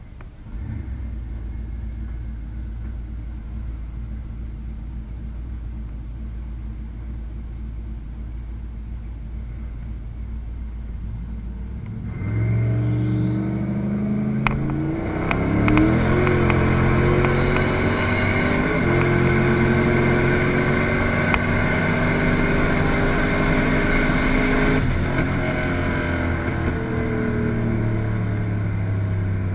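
Turbocharged 2011 Camaro SS V8, heard from inside the cabin, idling low and steady, then launched at full throttle about twelve seconds in for a quarter-mile pass. The engine pitch climbs and drops back at each upshift, with a faint rising turbo whistle as it spools. Near the end the throttle is lifted and the car runs on more quietly.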